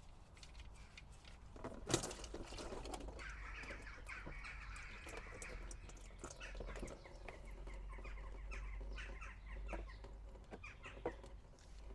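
Bird calls in the background, with a sharp knock about two seconds in and another click near the end.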